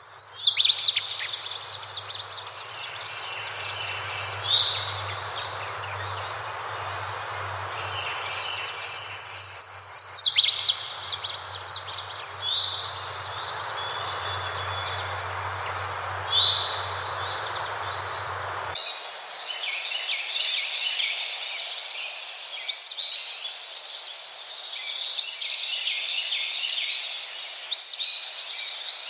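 Birds singing over steadily running water, with a loud rapid trill at the start and again about nine seconds in. About two-thirds of the way through, the water and a low hum cut off suddenly, and birds go on calling with repeated sweeping chirps.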